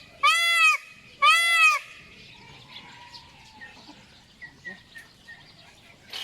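Indian blue peafowl giving two loud, nasal calls in quick succession, each rising and then falling in pitch, followed by faint scattered chirps from other birds.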